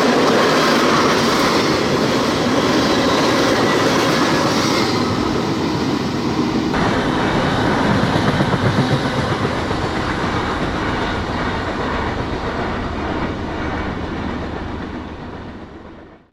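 A train rolling past, its wheels clattering rhythmically over the rail joints, with a steady loud rumble that fades away near the end.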